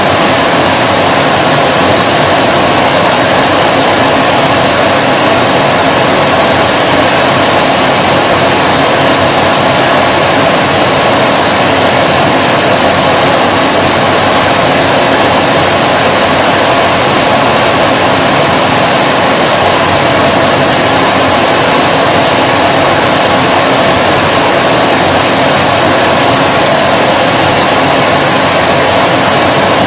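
Vacuum cleaner running steadily, a constant loud whoosh of motor and airflow with a faint steady whine and no change in speed.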